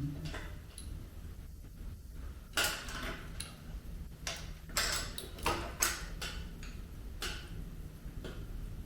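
Light metallic clinks and knocks of metal parts and hand tools being handled while a part is fitted to a motorcycle, scattered irregularly over several seconds, with a faint low hum underneath.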